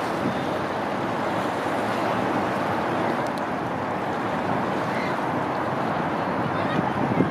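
Steady rushing of wind and harbor water on an open-air recording, even throughout.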